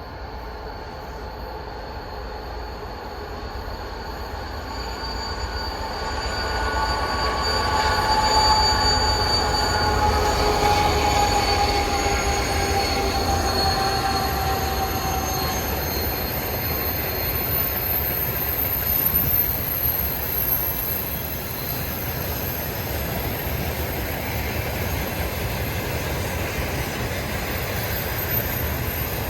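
A twin-section 2TE116 diesel locomotive passing under power. Its high whistle falls slowly in pitch as it goes by. A string of tank wagons then rolls past with steady wheel and rail noise.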